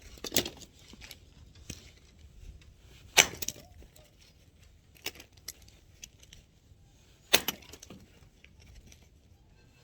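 Axe striking and splitting firewood: three sharp chops a few seconds apart, each followed by a lighter knock.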